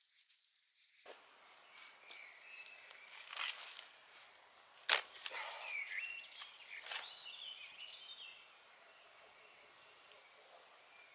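An insect chirping in a steady high pulsing trill, about five chirps a second, with a few sharp knocks, the loudest about five seconds in, and some short gliding chirps.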